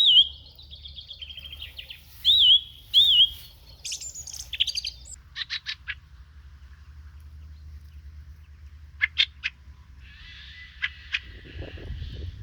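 Songbirds singing and calling: a few loud wavering whistled notes in the first few seconds, then scattered shorter chirps, over a steady low rumble.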